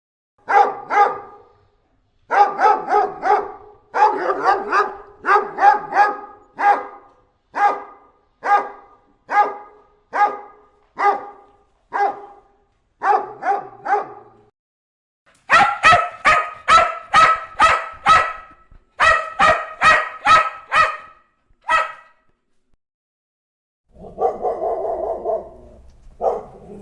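Dogs barking repeatedly, about one to two barks a second. Around 15 seconds in, sharper, higher-pitched barks come in quick runs. Near the end there is a drawn-out sound about two seconds long, then one more bark.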